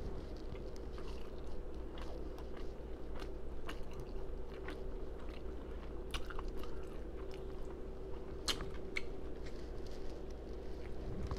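Close-miked open-mouthed chewing and lip smacking while eating shrimp fried rice, with many short wet smacks and clicks, a few sharper ones past the middle.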